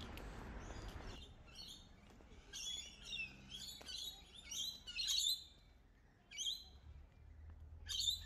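Birds calling in street trees: a run of sharp, high chirps, many sweeping down in pitch, repeated irregularly, the loudest near the end. A steady outdoor hiss underneath stops about a second in.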